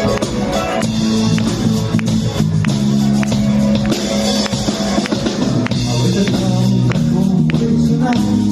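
A band playing rock music with guitar and a drum kit, loud and steady.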